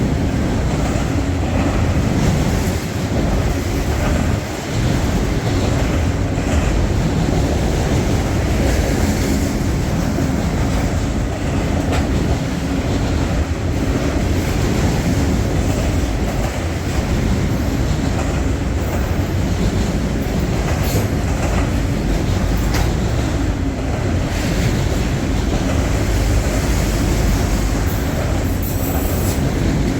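Freight train rolling past, its wheels clacking over rail joints, with a steady rumble.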